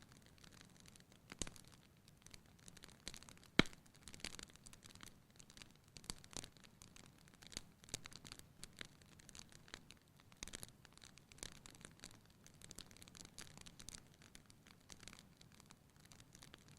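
Wood fire burning in a fireplace, crackling quietly: irregular small pops and snaps over a faint hiss, with one sharper pop about three and a half seconds in.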